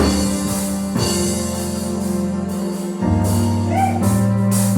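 Church keyboard or organ playing sustained gospel chords that change about once a second, with a short sung phrase near the end.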